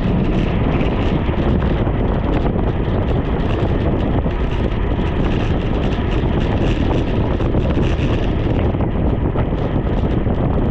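Wind rushing over the microphone of a bicycle speeding downhill, a loud, steady, deep rush of noise.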